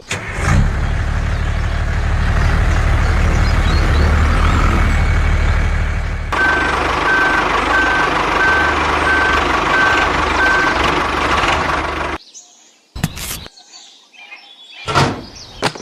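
Truck engine running steadily, with a reversing beeper sounding about seven times partway through. The engine sound cuts off abruptly, followed by a few sharp knocks.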